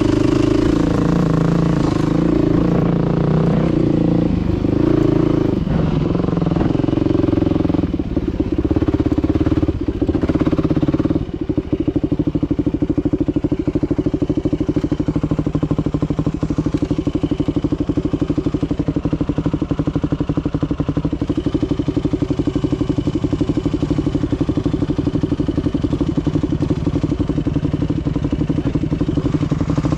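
Dirt bike engine running while riding. Its revs rise and fall for the first ten seconds or so, then hold steady.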